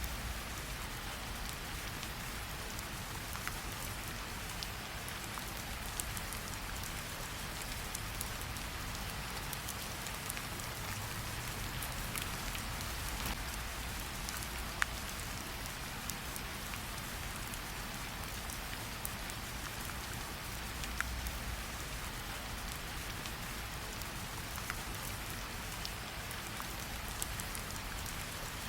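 Steady rain falling as an even hiss, with scattered sharp crackles and pops from a campfire, one louder pop about halfway through.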